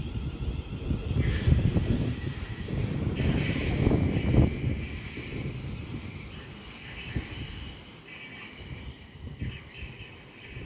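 Two coupled Class 350 electric multiple units pulling away from the platform, a low rail rumble with a hiss over it, fading as the train draws away.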